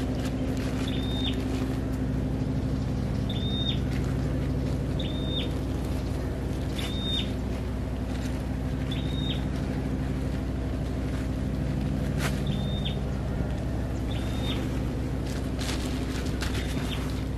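A bird repeating a short, high call about every two seconds, over a steady low mechanical drone like a running engine. A few faint clicks and scrapes come in here and there.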